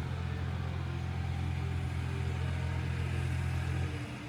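A steady low engine hum, like a vehicle running, that drops off about four seconds in.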